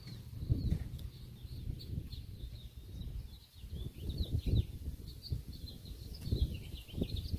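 Small birds chirping in quick, high, repeated calls throughout. Over them run irregular low rumbles, the loudest sounds, strongest about half a second in and again around four and a half seconds.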